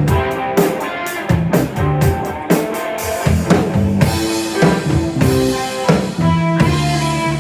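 Live rock band playing without vocals: a drum kit with bass drum keeping a steady beat under electric guitar and bass, with cymbals crashing from about three seconds in.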